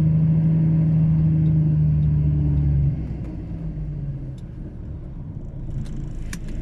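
Truck's diesel engine running with a steady drone, then the engine note drops off sharply about three seconds in as the throttle is eased and it runs on more quietly. A few faint clicks come near the end.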